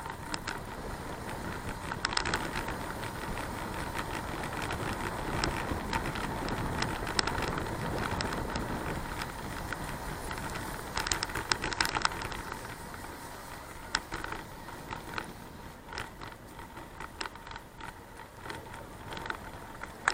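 A bicycle riding along: steady rolling noise with scattered sharp clicks and rattles, bunched a little after two seconds, around seven seconds and near eleven to twelve seconds. The noise eases somewhat in the second half.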